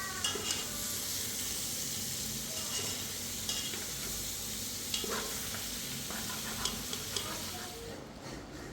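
A steady sizzling hiss with a few sharp clicks scattered through it; the hiss falls away near the end.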